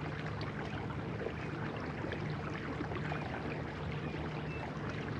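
Electric kayak motor running with a steady low hum, under an even wash of water and wind noise.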